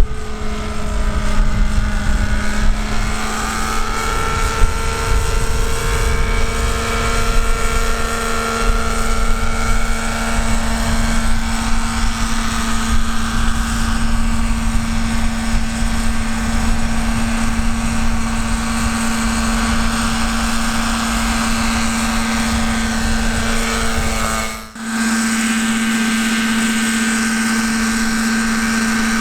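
Nitro-engined RC model helicopter (Thunder Tiger Raptor 50 mechanics under a scale MD 530 body) in flight: a steady engine and rotor whine at constant pitch, with low rumble beneath. The sound drops out briefly about 25 seconds in, then resumes steadier with less rumble.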